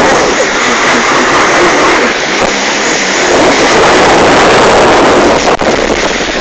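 Jet ski running at speed, mixed with heavy wind rush on the microphone and water noise. There is a brief sharp dropout about five and a half seconds in.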